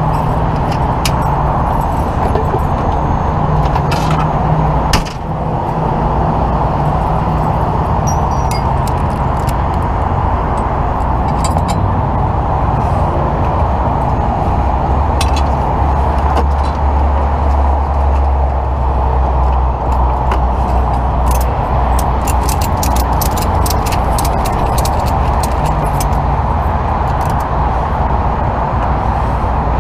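Broom sweeping crash debris across the road surface, with scattered clinks of glass and small debris, over a steady vehicle engine running and road noise.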